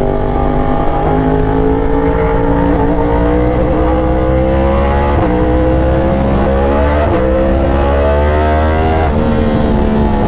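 Yamaha R1 crossplane inline-four sportbike engine accelerating hard through the gears. The engine note climbs steadily and dips briefly at each of about four upshifts.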